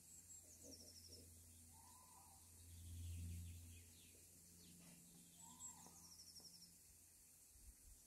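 Faint birdsong: a small bird twice gives a short high song, a thin note followed by a quick run of notes, about five seconds apart. Beneath it runs a low steady hum that swells briefly about three seconds in.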